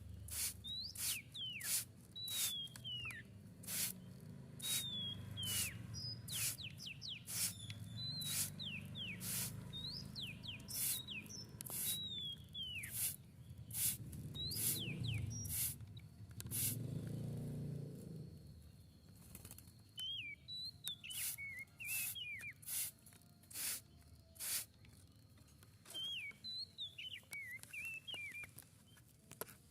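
A tledekan laut songbird calling in short whistled notes that slide downward, in bursts with pauses, among many sharp clicks and taps. A low rumble rises and fades about halfway through.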